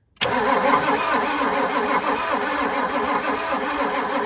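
Ford 7.3 IDI V8 diesel engine being cranked over by the starter, starting abruptly about a quarter second in and cranking steadily. It is a fuel-delivery test with the filter off: no fuel comes through, and the lift pump is judged bad.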